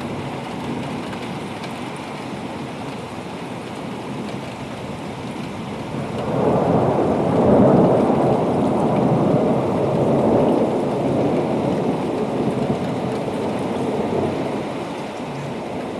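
Steady rain with a long roll of thunder that builds about six seconds in, peaks around eight seconds and slowly dies away, from a thunderstorm that is moving off.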